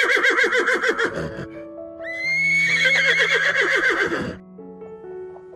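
A horse whinnying twice, each a loud, quavering whinny: the first is already sounding and fades out about a second and a half in, the second rises sharply at about two seconds and runs until about four seconds in.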